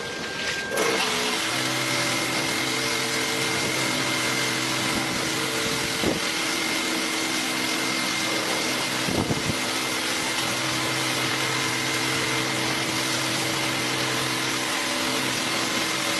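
Washing machine running: a steady motor hum with a high whine over a rushing noise, which changes and steps up about a second in, with a couple of short knocks midway.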